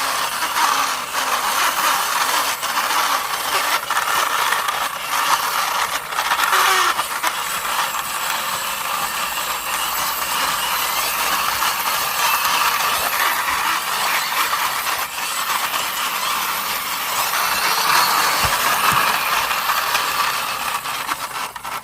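Yellow plastic toy school bus being pushed along by hand: a steady mechanical rattle and whirr of its wheels and mechanism.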